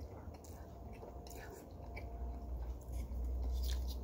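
A person chewing and slurping a mouthful of instant noodles, with faint wet clicks of the mouth. A low rumble grows louder near the end.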